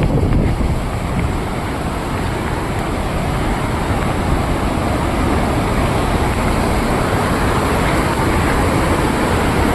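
Waterfall water rushing, a steady, loud, even roar.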